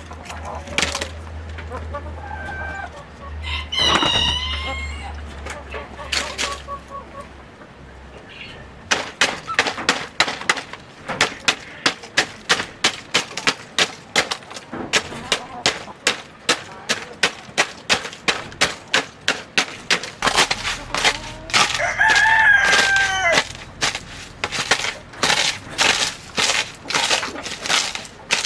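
A rooster crows twice, a few seconds in and again near the end. Over the second crow, from about a third of the way in, run sharp even knocks, about two a second.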